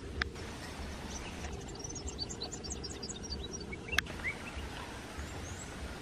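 A small bird twittering a quick run of short, high chirps in the middle, with a few lower notes just after, over a steady low rumble of background noise. Two sharp clicks stand out, one near the start and one about four seconds in.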